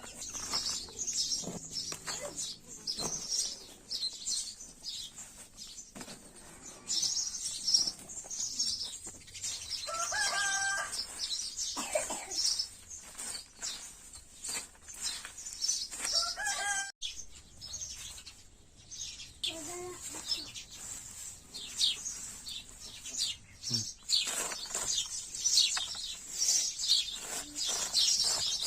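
Chickens clucking with small birds chirping throughout, and a few longer calls from a hen or rooster about ten, sixteen and twenty seconds in.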